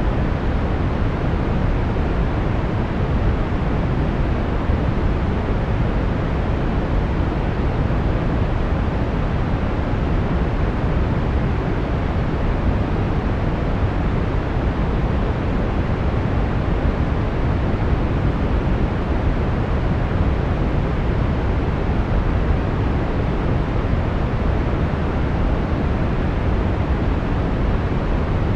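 Brown noise: a steady, even rumbling hiss, strongest in the low end and fading toward the highs, with no change throughout.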